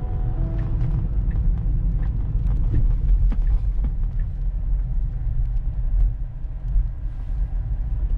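Steady low road and tyre rumble inside the cabin of a moving Tesla Model 3, an electric car with no engine note, with scattered faint ticks.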